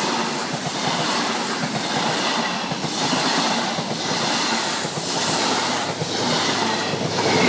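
A High Speed Train (InterCity 125) passing slowly, its coach wheels rumbling and clacking over the rail joints in a repeating rhythm.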